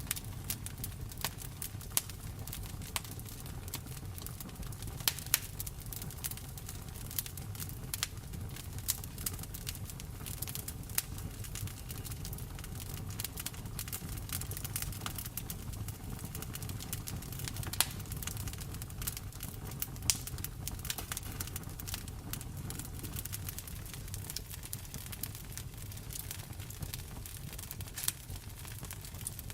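Wood fire crackling in a fireplace, with irregular sharp pops and snaps, a few louder than the rest, over the steady hiss of falling rain.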